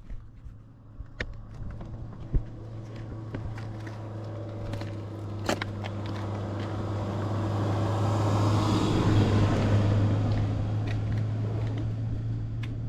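KTM 690 SMC-R's single-cylinder engine running at a steady, even speed, with scattered sharp clicks and knocks. It grows louder toward the middle and later part, with a rush of noise at its loudest.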